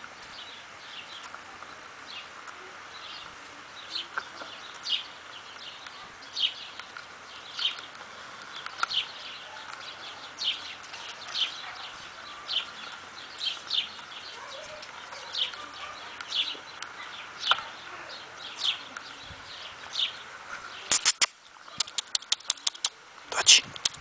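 A bird calling over and over: short, high chirps that fall in pitch, about one a second. Near the end comes a quick run of loud, sharp clicks.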